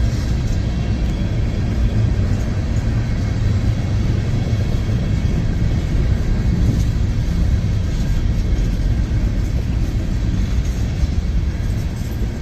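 Freight train of empty open hopper cars rolling past, a steady rumble of steel wheels on the rails with faint scattered clicks.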